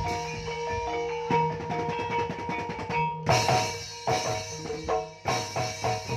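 Gamelan music without singing: struck keyed percussion rings over held metallic tones while a hand drum plays. A quick run of drum strokes comes about two seconds in, followed by heavier, regular drum hits from about three seconds.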